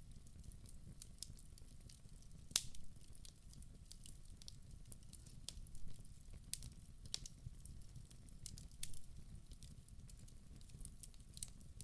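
Wood fire crackling in a fireplace: irregular sharp pops and snaps over a low, steady rumble of flames, with one louder pop about two and a half seconds in.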